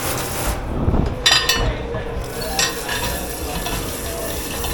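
Dishes and cutlery clattering in a dish pit: a quick run of clinks and knocks about a second in and another clink a little after halfway, over a steady hiss and a constant machine hum.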